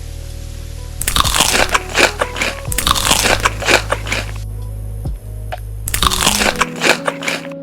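Loud, close-miked crunchy chewing of food in three spells of about a second and a half each, over background music with long held notes.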